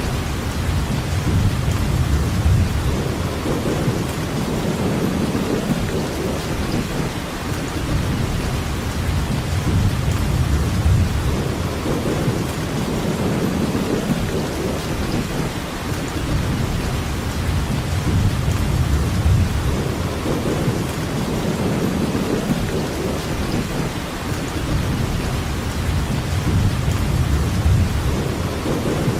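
Steady heavy rainfall, with a low rumble underneath that swells and fades every two to three seconds.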